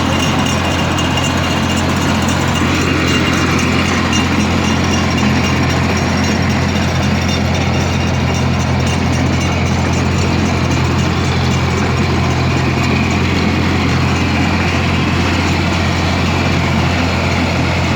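Rotary tiller's engine running steadily while milling the soil between garlic rows, a constant low engine hum.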